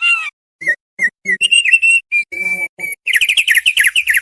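Thick-billed heleia (opior paruh tebal) singing: a string of short, clear whistled notes that breaks into a fast run of quick down-slurred notes about three seconds in. The song starts abruptly out of silence.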